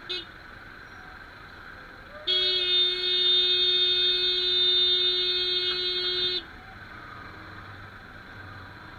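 Vehicle horn: a short toot right at the start, then one long steady blast held for about four seconds that cuts off abruptly, over the steady hum of engine and traffic noise.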